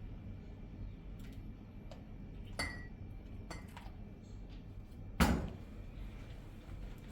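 A few light clinks and taps, like dishes or pots being handled, the first with a short ring, then one sharp, much louder knock about five seconds in.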